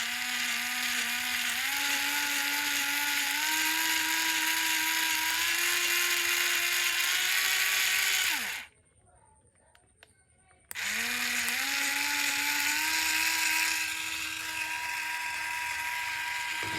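Small DC motor of a toy car running with a whine that climbs in pitch in several steps. It cuts off about nine seconds in with a falling pitch, then starts again two seconds later and climbs the same way.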